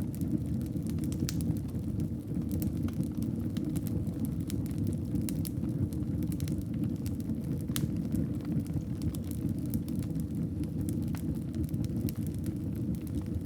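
Wood fire crackling in a fireplace: a steady low rumble of burning with scattered sharp pops and snaps at irregular intervals.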